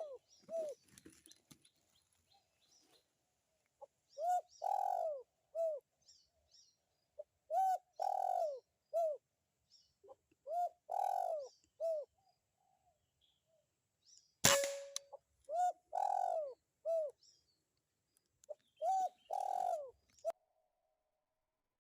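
Spotted dove cooing in repeated phrases of three or four arched coos, a phrase every three seconds or so. About fourteen and a half seconds in comes a single sharp crack, an air rifle shot, which is the loudest sound.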